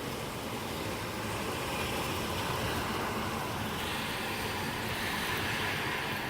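Heavy squall-line rain driven by gusty wind, a steady rushing noise that swells around the middle and again near the end.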